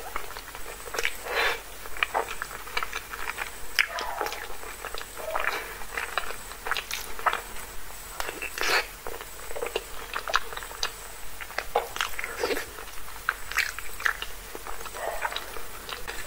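Close-miked chewing of creamy alfredo pasta: wet, sticky mouth sounds with irregular smacks and clicks, several a second.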